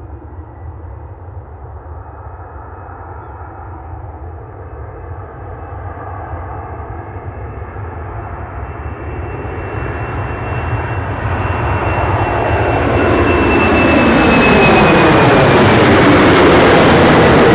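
Jet airliner's engines growing louder over about fourteen seconds as the aircraft approaches and passes. The rushing roar carries a high whine that slides slightly down in pitch, with a swirling, phasing sweep at its loudest near the end.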